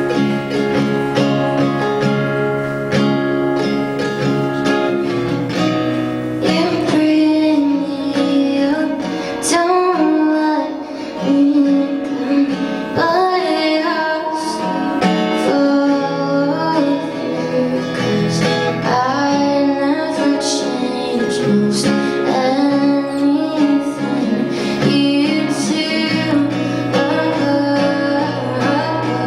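Live acoustic guitar accompanying a woman singing a slow indie-pop love song. The singing comes in a few seconds after the guitar.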